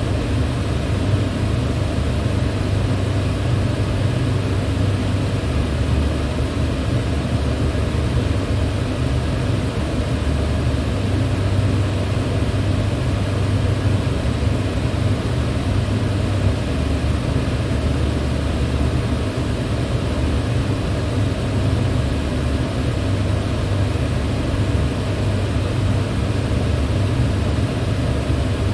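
Electric fan running steadily: an even rush of air over a deep hum.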